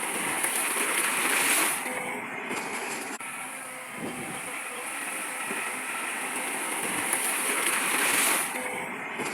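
Heavy earthmoving machinery running with a steady mechanical noise and hiss. It swells twice, about a second and a half in and again near the end, and drops off sharply after each swell.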